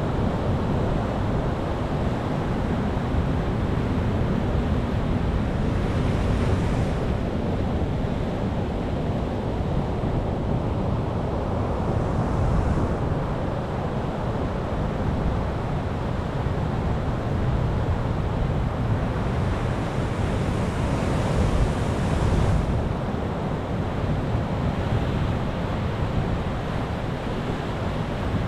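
Ocean waves breaking and washing on the shore in a continuous deep rumble, with hissier surges of surf about 6 seconds in, around 12 seconds and again from about 19 to 23 seconds.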